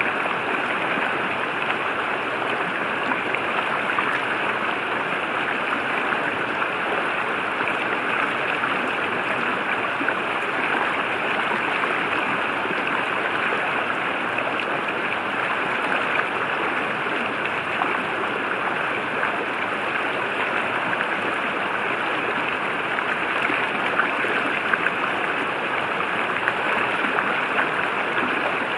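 A river flowing: a steady, even rush of running water with no breaks.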